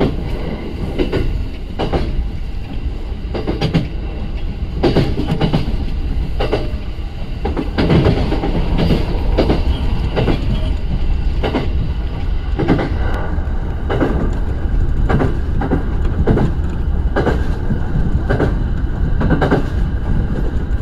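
Shinano Railway SR1 series electric train running at speed, heard from inside, with a steady low rumble and its wheels clacking over rail joints about once a second.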